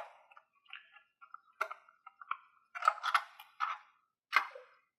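Irregular clicks and knocks of hard plastic as a screw is undone and the extended thermal cover is taken off a round pattern time switch's base. The loudest knocks come about three seconds in, with two more shortly after.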